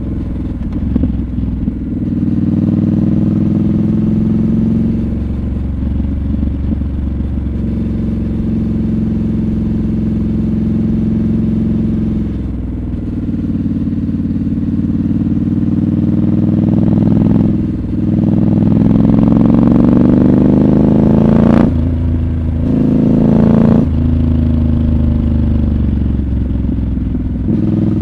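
Triumph Scrambler 1200 XC's 1200 cc parallel-twin engine running while riding, its pitch rising and falling with the throttle. In the second half it climbs through the revs, broken by a few short gaps where the rider shifts up a gear.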